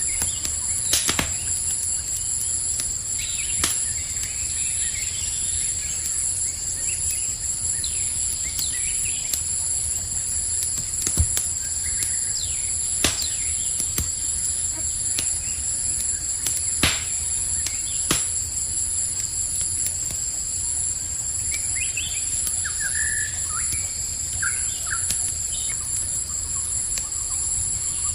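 Campfire crackling, with sharp pops every few seconds, over a steady chorus of crickets trilling. A few short bird chirps come near the end.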